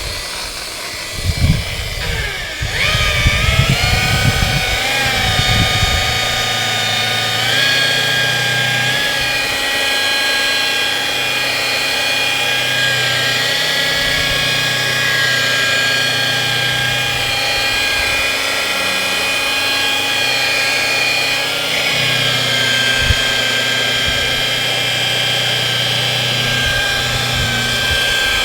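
Electric rotary car polisher whining as it spins up, then running steadily while buffing rubbing compound into car paintwork. A few knocks come in the first seconds.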